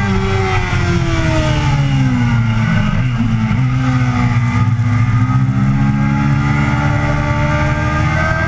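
Yamaha sport bike engine heard on board, with wind rush. For the first three seconds its revs fall as the bike brakes hard from high speed, with a brief blip around three seconds in. The revs then rise steadily as the throttle reopens through the corner.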